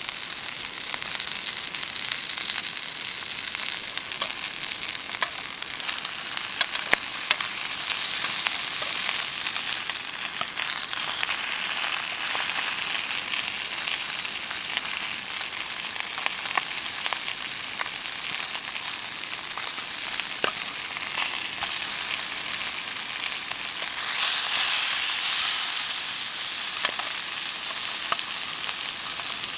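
Bacon and sausages sizzling and spitting in a small pan on a gas-canister camping stove: a steady frying hiss with scattered crackles, growing louder about eleven seconds in and again briefly around twenty-four seconds.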